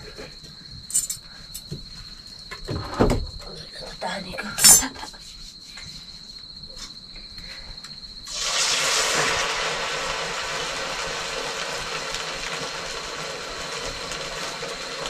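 A few sharp clinks of kitchen utensils, then a steady hiss that starts suddenly about eight seconds in and carries on, all over a cricket's continuous high trill.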